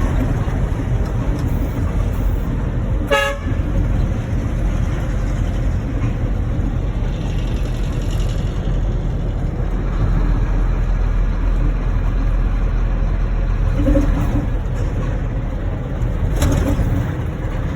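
A moving truck running steadily with a low rumble of engine and road noise, and a horn tooting once, briefly, about three seconds in.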